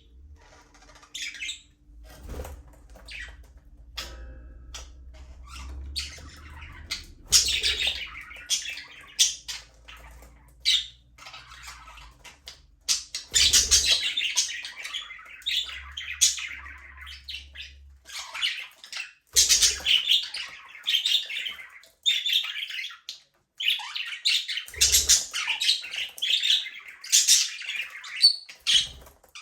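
A flock of budgerigars chattering: rapid chirps, warbles and squawks that come in dense spells with brief lulls between.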